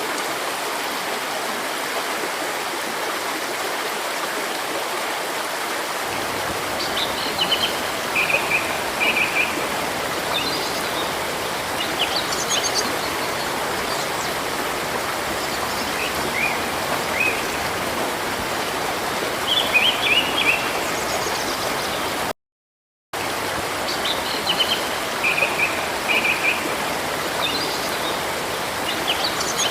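Steady rushing of river water, with small songbirds chirping in short, high phrases over it every few seconds. The sound cuts out completely for under a second about two-thirds of the way through.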